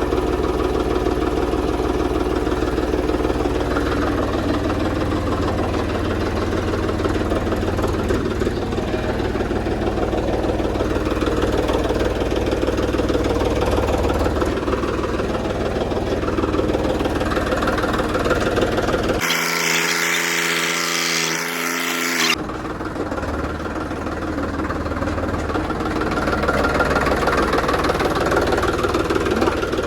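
Tractor diesel engine running steadily. About two-thirds of the way through, the engine's low end drops out for about three seconds while a different, brighter sound cuts in, then the engine sound returns.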